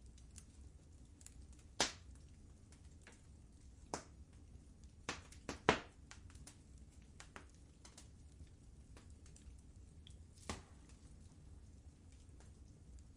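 Wood fire in a fireplace crackling, with scattered sharp pops over a low steady rumble; the loudest pop comes about halfway through.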